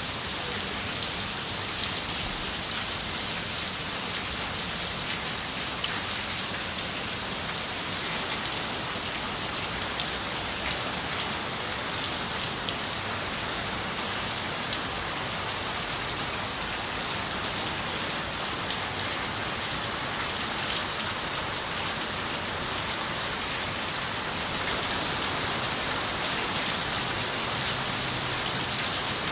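Steady rain on a window, an even hiss with scattered single drops ticking through it. It grows a little louder near the end.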